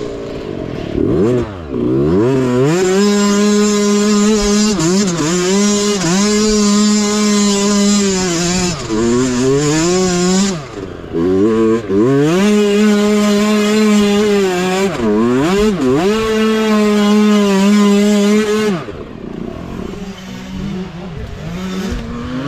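Mini bike engine running at high revs under load, with the throttle closed and reopened several times so the pitch dips and climbs back; near the end it drops to lower, uneven revs as the throttle eases off.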